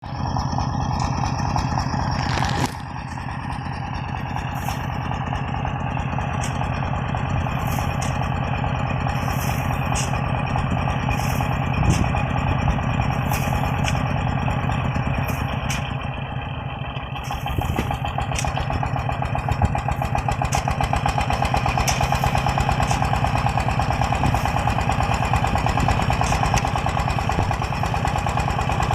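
Công nông farm truck's single-cylinder diesel engine running with a rapid, even firing beat, dipping in level briefly near the start and again about two-thirds of the way through.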